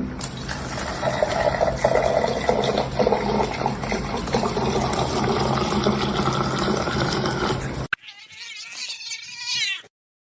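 Domestic cat yowling and meowing over a steady, noisy background. There is a sudden cut about eight seconds in, followed by a short run of bending, pitched calls that stop abruptly.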